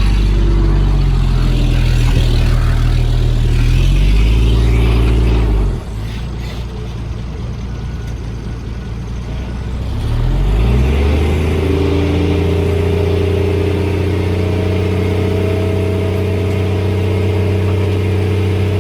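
Heavy-equipment diesel engine running hard, its pitch climbing about four seconds in and then dropping off sharply just before six seconds. Around ten seconds it revs up again and holds a steady, higher pitch to the end.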